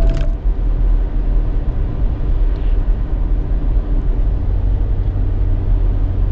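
Steady low rumble of road and engine noise inside a moving vehicle's cabin, with a low hum that grows stronger about four seconds in.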